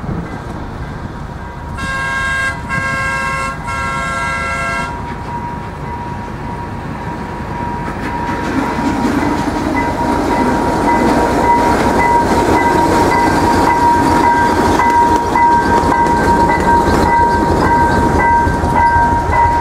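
Locomotive horn sounds a chord in three blasts. Then a passing train goes by, its rolling noise growing louder, with a steady high tone over it.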